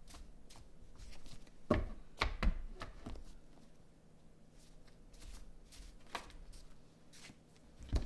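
Tarot cards being shuffled and handled, a patter of small clicks and rustles with a few louder sharp knocks, a cluster about two seconds in and another near the end.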